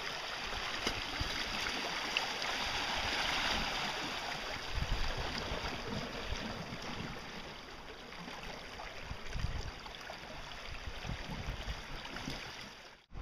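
Steady wash of seawater along an icy shoreline, with wind gusting on the microphone now and then.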